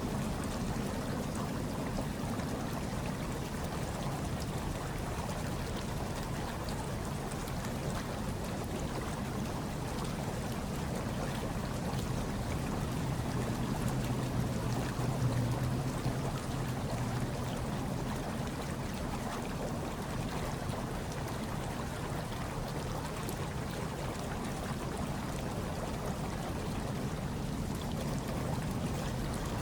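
Hot tub water churning and trickling steadily, with a low steady hum underneath that swells a little about halfway through.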